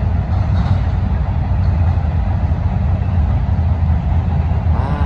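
Freight train cars rolling past close by: a loud, steady low rumble of steel wheels on the rails.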